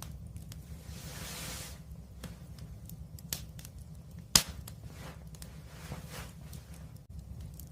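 Wood fire burning with a low steady rumble and scattered crackles, one sharp loud pop about four seconds in, and a brief hiss near the start.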